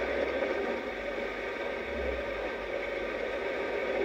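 Steady rushing noise of a moving passenger train, wheels on rail and air at the open window, with no distinct clicks or horn.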